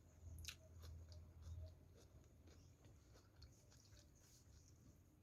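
Faint chewing of food with a few small wet mouth clicks, very quiet.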